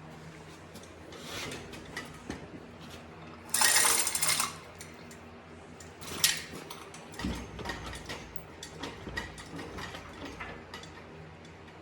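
Hand ratchet wrench clicking in quick runs, the loudest lasting about a second, a third of the way in, with scattered metallic clinks of tools and parts and a low thump past halfway.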